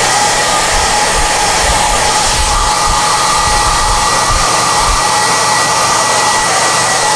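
SOUNATE high-airflow hair dryer (XM-H008) blowing steadily at full power, a rush of air with a thin steady whine. Irregular low rumbling under it stops about five seconds in.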